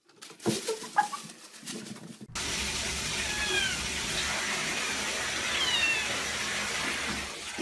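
A cat meowing in short calls, then a steady rush of running water starts suddenly about two seconds in, with a few short high falling calls over it.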